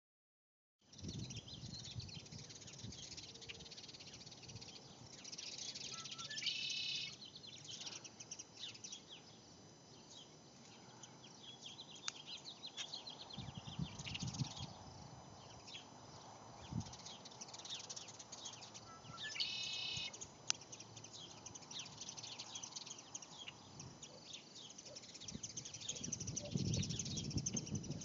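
A bird calling noisily outdoors: a steady run of short, high-pitched chirps, broken twice by a longer, louder call, about six seconds in and again near twenty seconds.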